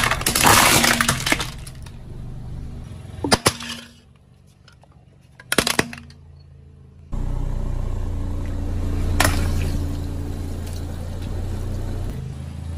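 Objects crunching and breaking under a car tyre, with brittle, glassy cracks: a burst of crackling crunches at the start, then single sharp cracks about three and a half and five and a half seconds in. From about seven seconds a steady low hum runs under a further crack.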